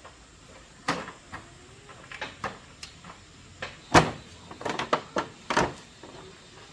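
A series of sharp knocks and clacks at uneven intervals, like hard objects being handled, set down or bumped, the loudest about four seconds in and a quick cluster of them soon after.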